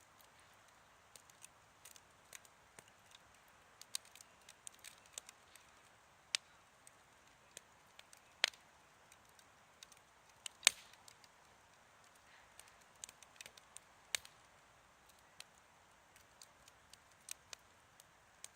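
Wood campfire crackling: a faint low hiss with irregular sharp pops and snaps, one loud pop about ten and a half seconds in.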